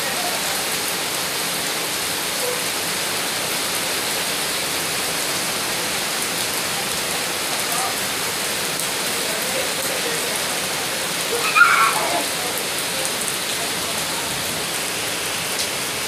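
Steady rain falling and splashing on paved ground and plant leaves. A brief louder sound cuts through about twelve seconds in.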